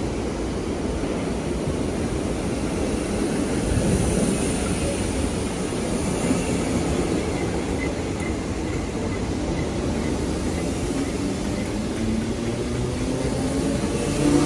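Merseyrail Class 508 electric train running into an underground station, a steady rumble of wheels on rail. Near the end a rising motor whine sets in as a train picks up speed.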